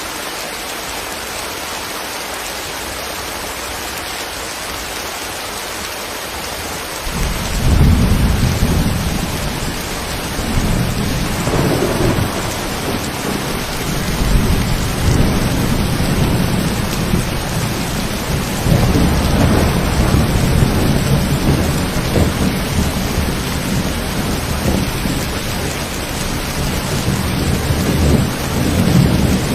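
Steady rain hiss; about seven seconds in, a loud low rumble of thunder sets in and rolls on over the rain in repeated swells.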